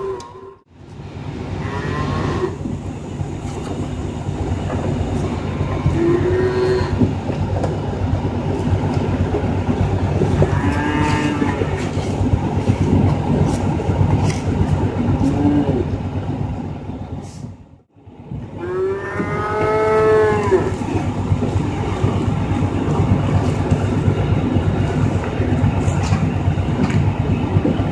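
Young calves mooing inside a cattle transport truck: several separate calls over a steady low rumble, the loudest in the second half. The sound drops out briefly twice.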